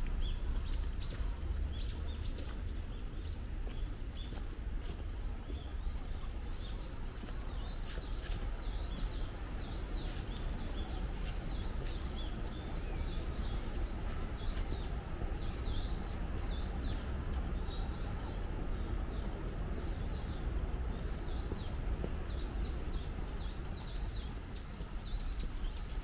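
Birds chirping: many short, arching high calls repeat and overlap, growing thick after the first few seconds. Under them runs a steady low rumble of wind on the microphone.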